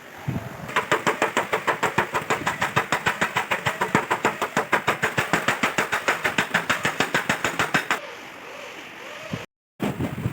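Hammer rapidly tapping out a dent in a car fender's sheet metal, about six or seven even, ringing strikes a second, stopping about eight seconds in.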